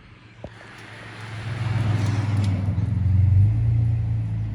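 Car engine running with a low, steady rumble that swells louder about a second and a half in, then eases off slightly.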